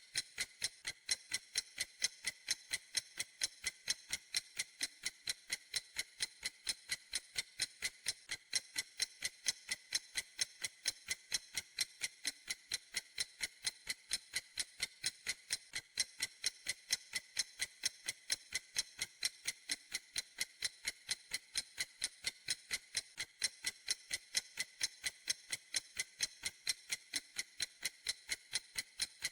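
Clock ticking steadily: sharp, evenly spaced ticks, several a second, with an unchanging rhythm.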